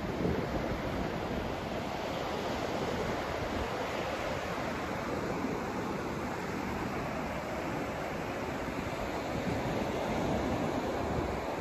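Steady white-noise track for sleep: an even, unbroken rushing hiss, weighted toward the lower and middle range, somewhat like distant surf or wind.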